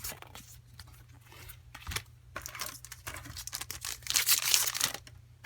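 Crinkly foil booster-pack wrapper being handled and torn, in several rustling bursts, the longest and loudest near the end.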